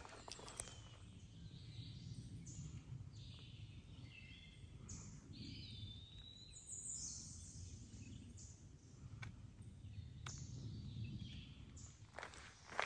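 Songbirds calling faintly in the woods: short high chirps and a sliding whistle near the middle, over a low steady rumble.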